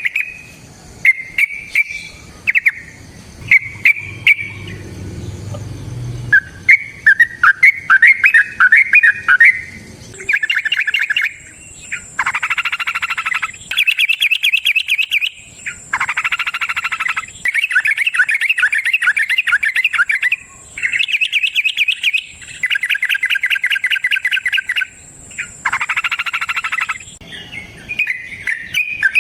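Yellow-vented bulbul (trucukan) singing: short bubbly phrases at first, then from about ten seconds in long bouts of rapid rattling notes, the drawn-out 'ropel' song. A thin steady high whine runs beneath the song through most of the second half.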